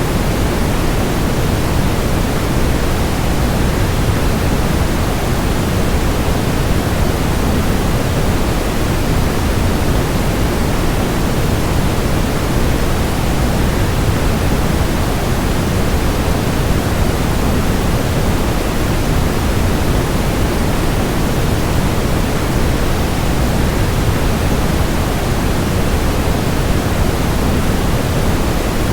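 Steady waterfall noise: an even, unbroken rush of falling water, strongest in the low end, with no changes.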